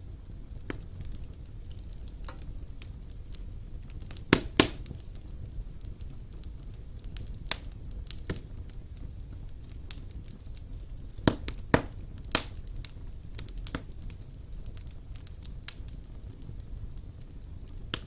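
Wood fire burning in a fireplace: a low steady rumble with irregular sharp crackles and pops from the burning logs. The loudest pops come in a pair about four seconds in and in a cluster around eleven to twelve seconds in.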